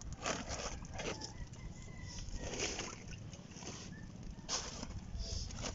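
Several short splashes and scrapes in shallow seawater among reef rocks as feet and a stick move through a tide pool, over a steady low rumble.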